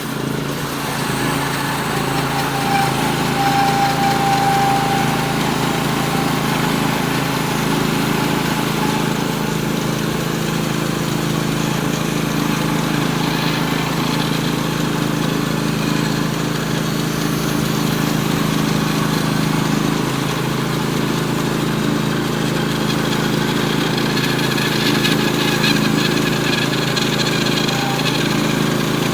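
Norwood HD36V2 portable bandsaw mill running steadily under load, its engine driving the band blade through a 36-inch poplar log to take off a 2-inch flitch.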